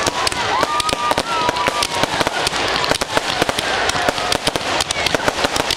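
Fireworks going off in a dense, rapid run of crackling bangs, with a few whistling tones over the first two seconds.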